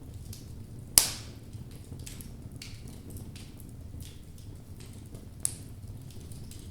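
Wood fire of burning logs crackling, with a low steady rumble of flame under scattered light snaps. One loud sharp pop about a second in and a smaller one near the end.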